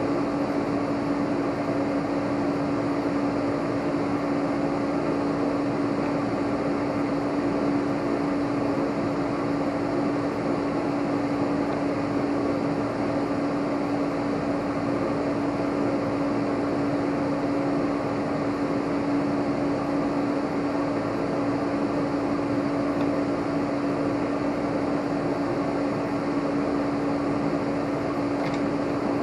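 A steady machine hum: one constant low tone over an even rush of noise, unchanging throughout.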